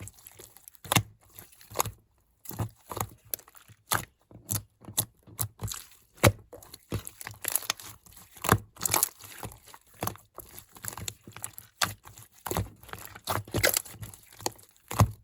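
Slime being squeezed and poked by hand, giving irregular crunchy clicks and crackles.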